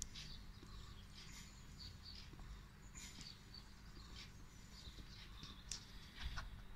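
Small songbirds chirping and giving short whistled calls, faint and scattered, over a steady low rumble.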